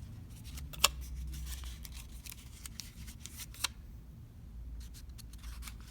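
Folded origami paper crinkling and crackling as fingers are pushed into the bird's pockets, with scattered small crackles and two sharper snaps, about a second in and a little past halfway.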